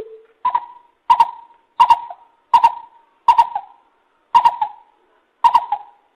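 Lesser coucal calling: one lower note, then a series of seven higher notes about a second or less apart. Each note starts sharply and tails off with a slight drop in pitch.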